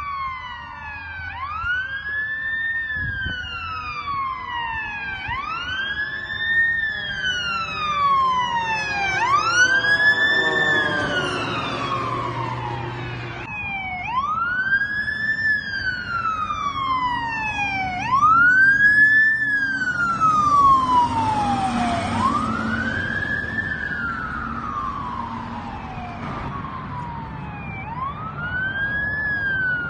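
Emergency-vehicle sirens from responding fire apparatus and an ambulance, sounding a wail that climbs quickly and falls slowly, about once every four seconds. A second siren overlaps it through the first half, over the low rumble of heavy vehicle engines.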